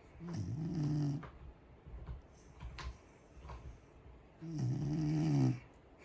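Corgi snoring: two snores, each about a second long, one right at the start and one near the end.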